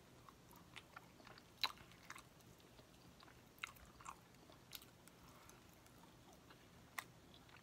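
Quiet chewing of soft rotisserie chicken meat, with scattered wet mouth clicks and smacks, the sharpest about one and a half seconds in.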